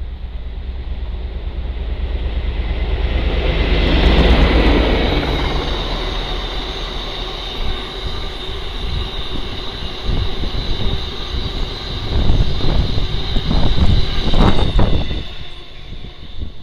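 Train passing: a rumble builds to a first peak about four seconds in, then a long run of wheel clatter with a steady high whine over it, loudest near the end before fading.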